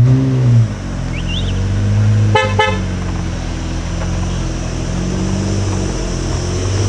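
A supercar engine blips its revs once, then runs at a steady low drone. About two and a half seconds in, a car horn gives two quick toots.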